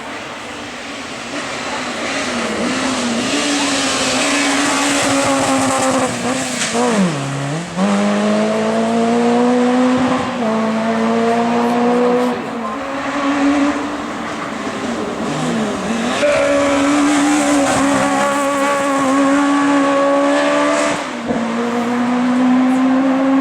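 Racing car engine at full throttle on a hill climb, pulling hard and rising in pitch, with sharp drops in the note about a third of the way in and again about two-thirds through as the driver lifts and changes down for corners, then accelerates again.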